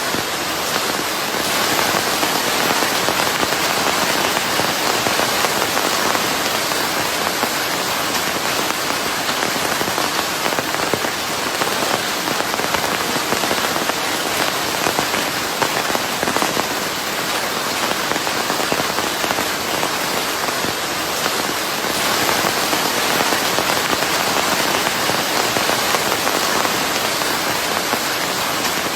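Steady rain falling on a surface, a dense patter of drops blended with white noise.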